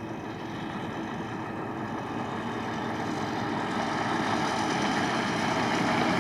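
Scania V8 diesel truck engine running at a steady pitch, growing gradually louder.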